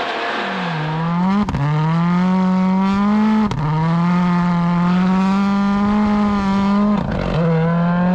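Rally car engine at full throttle, heard from inside the car, pulling hard and shifting up three times; each shift is a short crack, after which the engine note drops and climbs again.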